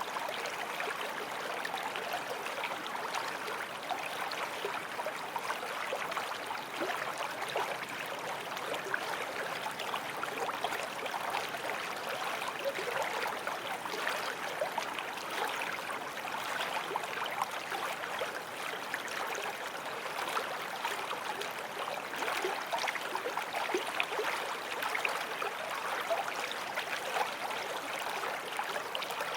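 Small forest stream flowing over stones: a steady babble and trickle of water with many small splashes.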